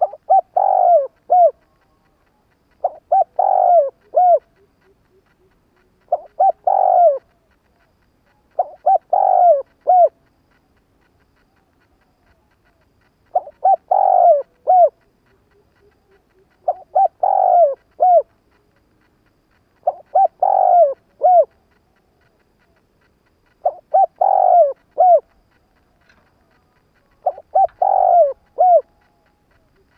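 Spotted dove cooing: a short phrase of three or four low coo notes, repeated nine times at intervals of about three seconds.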